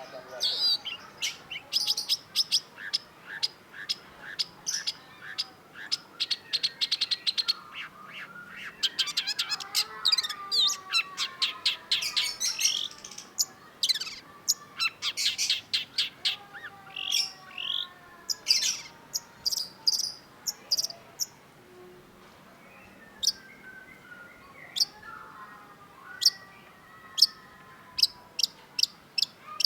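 Long-tailed shrike singing a fast, varied song of sharp high chirps and quick rattling trills, with fainter sliding whistles underneath.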